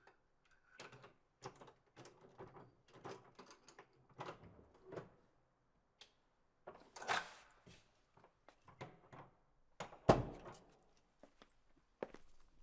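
Scattered knocks, clatter and scraping handling noises in a small room, with a heavy thud about ten seconds in, like a door or drawer being shut.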